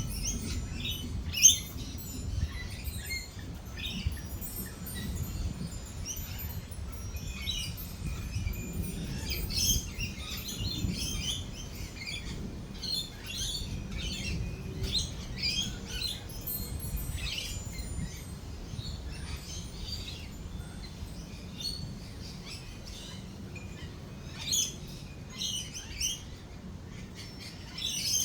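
Lorikeets chirping and screeching, with many short shrill calls throughout. A steady low rumble runs underneath, and one sharp loud sound comes about a second and a half in.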